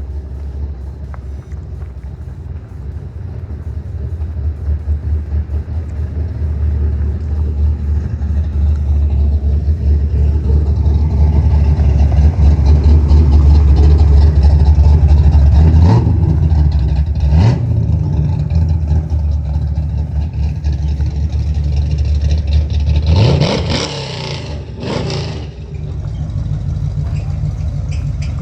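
Motor vehicle engine running with a loud, deep rumble that builds over the first half, with short revs about two-thirds in and two sharp revs near the end.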